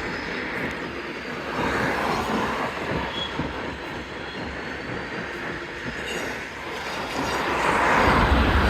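Freight train cars rolling along the rails in a rail yard, with wheel-on-rail clatter and a faint high wheel squeal. It grows louder near the end.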